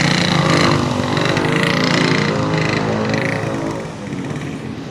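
A motor vehicle's engine running close by, its sound easing off about four seconds in as it moves away.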